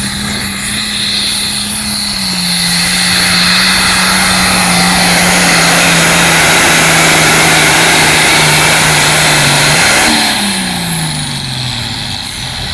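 International 966 hot farm pulling tractor's engine at full throttle pulling the sled, its pitch sagging slowly as it bogs under the load, with a loud rush of exhaust noise and a high whine. About ten seconds in, the throttle comes off and the engine winds down.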